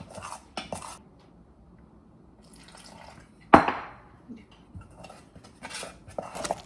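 Utensil clinking and scraping against a bowl while stirring tempura batter, in short bursts, with one louder knock about three and a half seconds in.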